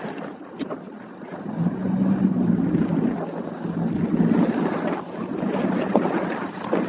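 Snowstorm wind buffeting the microphone: a rough, low noise that swells and eases in gusts.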